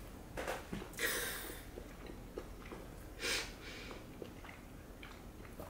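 Quiet chewing of a fried chicken sandwich: small wet mouth clicks, with two short breaths through the nose, about a second in and again past three seconds.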